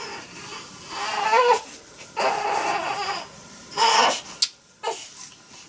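Newborn baby crying in three short, wavering wails, with a sharp click just after the last one.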